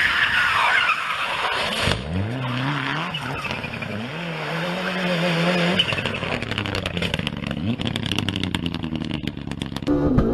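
Rally car engine revving hard, its pitch climbing and dropping as it shifts gear, over tyre and road noise. In the second half a fast rattle of clicks runs under the engine.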